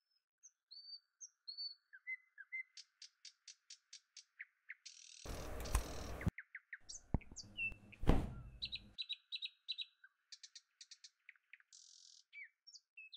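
Small birds chirping and calling in quick runs of short high notes, over a faint steady high hum. About five seconds in, and again about seven seconds in, comes a louder burst of noise lasting a second or two; this is the loudest sound here.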